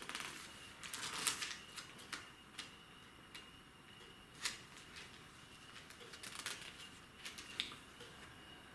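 Bible pages being turned and rustled, with a burst of rustling in the first second and a half and then scattered soft clicks and ticks as the pages are handled. A faint steady high tone runs underneath.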